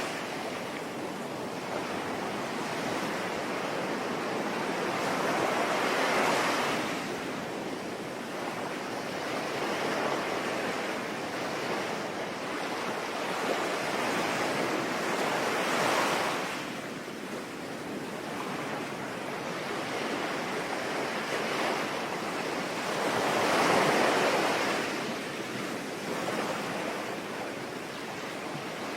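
Sea waves breaking and washing in, with the surge swelling every several seconds over a steady hiss of rain.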